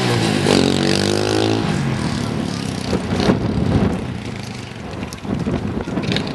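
Mini motorbike engine revving, then fading away after about a second and a half, leaving rustling noise and a few knocks.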